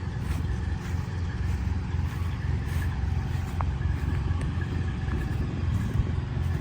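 An engine running steadily, with a heavy low rumble.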